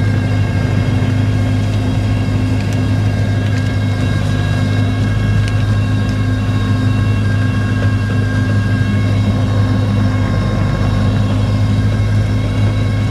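Sling 2 light aircraft's Rotax four-cylinder engine and propeller droning steadily at a constant pitch, with a few faint clicks.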